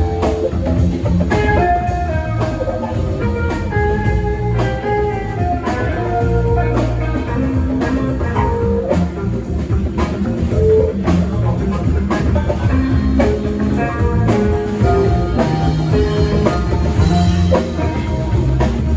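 Live band playing: a guitar picks out a melody of single notes over a drum kit keeping a steady beat.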